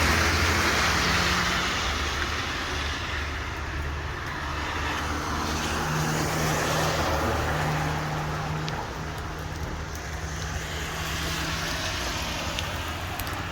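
Road traffic on a rain-wet street: cars passing with a steady hiss of tyres on the wet road over a low engine hum, swelling near the start and again about halfway through.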